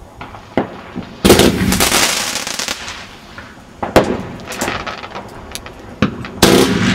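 Aerial fireworks bursting: a few light pops, then a loud burst about a second in followed by over a second of dense crackling, a sharp bang near the four-second mark, and another loud burst near the end.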